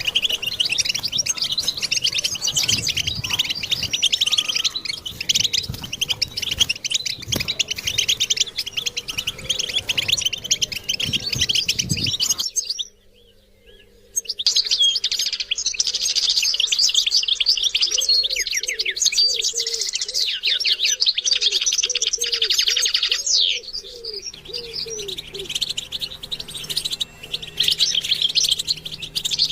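European goldfinch singing a fast, continuous twittering song of high chirps and trills. The song breaks off for a moment just before halfway and then resumes. A run of lower repeated notes sounds under it in the second half.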